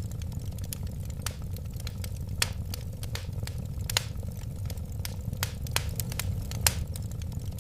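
Wood fire burning with a low, steady rumble of flames and irregular sharp crackles and pops. Two louder pops stand out, one about halfway and one near the end.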